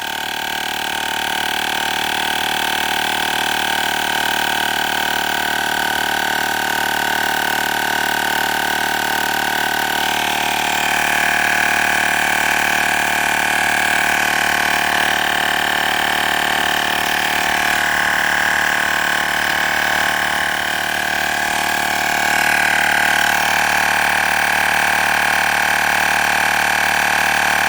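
Olgeo M7 portable air compressor running steadily, a continuous pitched whine that shifts slightly in pitch a few times. It is working against the back-pressure of a tire already pumped past 35 psi on its way to 40.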